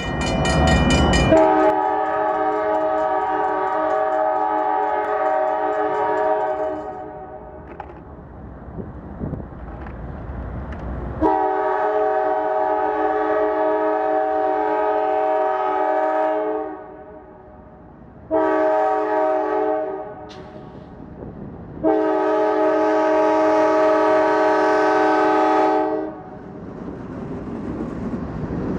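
Freight locomotive's multi-tone air horn sounding the grade-crossing signal: two long blasts, a short one and a final long one. The train's rumble carries on between the blasts.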